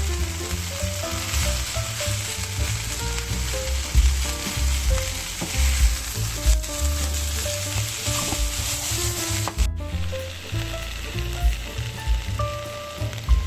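Napa cabbage and bacon frying in a pan with a steady, loud sizzle that cuts off suddenly about ten seconds in. Soft background music plays throughout.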